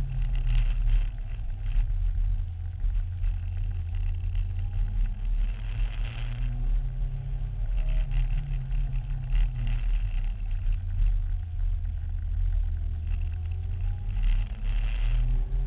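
Yamaha R1 inline-four engine in a Mini running with a steady low rumble, its note wandering slightly up and down, with the fault the owner is asking for ideas about.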